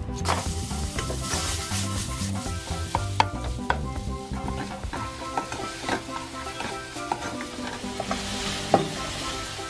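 Minced pork sizzling as it hits hot oil in a nonstick frying pan, frying steadily while a spatula stirs and breaks it up, with a few sharp clicks of the spatula against the pan, the strongest near the end. Background music plays underneath.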